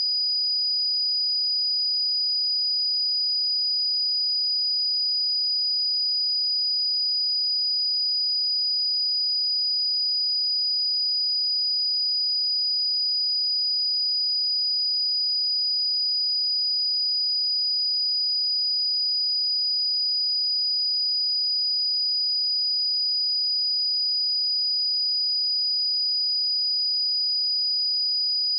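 A pure 4933 Hz sine-wave test tone, one steady high-pitched tone held at constant level.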